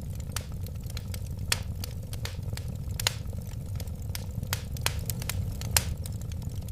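Wood fire burning with a steady low rumble of flames and frequent sharp crackles and pops at irregular intervals, the loudest a few seconds apart.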